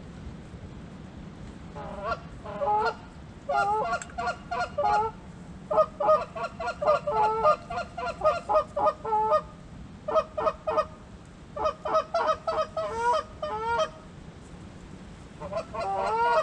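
Geese honking in a quick series of overlapping calls, coming in bursts that start about two seconds in, pause briefly around ten seconds, and pick up again near the end.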